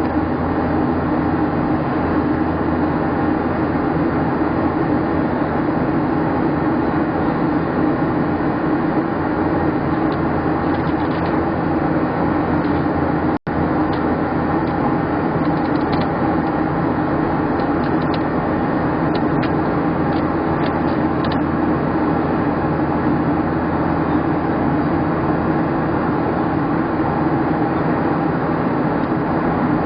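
Steady cabin noise inside a Boeing 737-700 during the climb: the roar of its CFM56-7B jet engines and rushing air, with a steady hum. The sound cuts out for a split second about halfway through.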